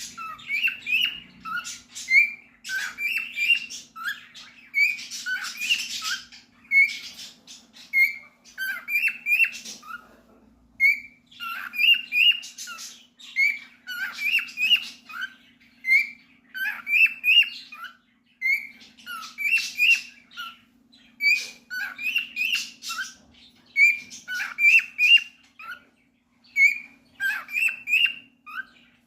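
Cockatiel singing and chattering: runs of short whistled notes mixed with raspy squawks, in phrases that repeat every second or two with brief pauses. A faint steady low hum sits underneath.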